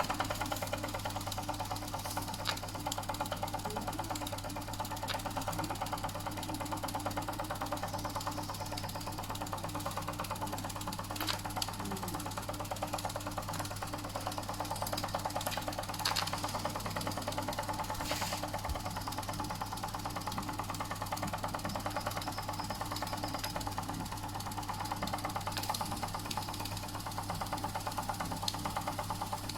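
Doll & Co 339/2 stationary model steam engine running steadily under steam, with a fast, even mechanical beat and a low steady hum.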